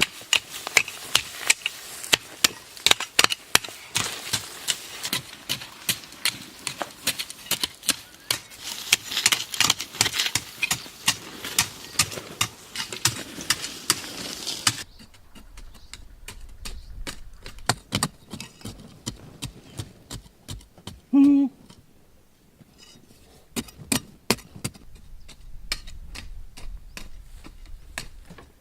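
Hand tools knocking and chopping on bamboo in irregular strokes, busy and over a steady hiss for the first half, sparser after a cut. A short hooting call sounds once about two-thirds of the way through.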